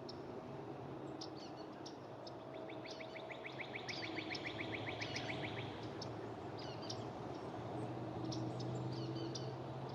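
Small birds chirping with short high calls scattered throughout, and one rapid trill of about six notes a second running for about three seconds, over a low steady hum.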